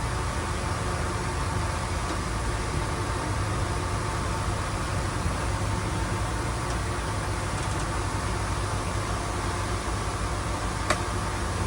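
Heavy diesel earthmoving machinery running steadily with a deep rumble. A single sharp click sounds near the end.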